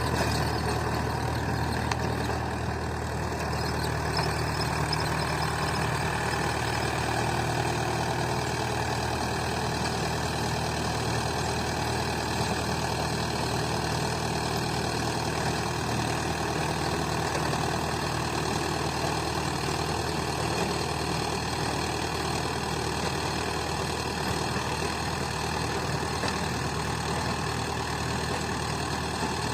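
Mahindra 575 DI tractor's diesel engine running at a steady speed, a continuous even drone with no change in pitch.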